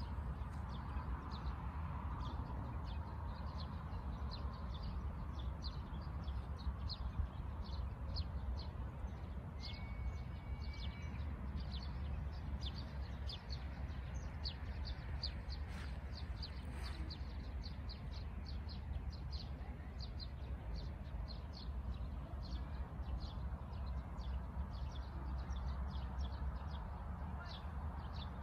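Birds chirping: short high chirps repeating a few times a second, over a steady low rumble.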